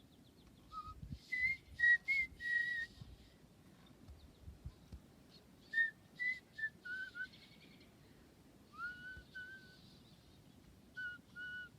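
Someone whistling a tune in short, clear notes that step up and down in pitch, in four phrases separated by pauses, with a few soft thumps in the first few seconds.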